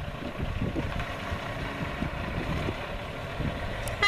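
Big-rig car carrier's diesel engine running with a steady low rumble as the truck pulls out.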